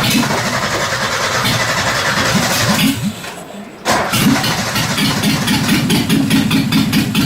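Nissan S12 Gazelle's starter cranking the engine in a fast, even rhythm without it catching, in two goes broken by a pause of about a second. Someone then asks whether it has fuel.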